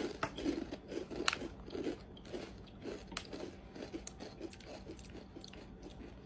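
Mouth crunching and chewing of crunchy puffed wheat-and-rice snacks, sweet-and-spicy tteokbokki flavour: sharp crunches come thick and loud in the first two seconds, then give way to softer, sparser chewing.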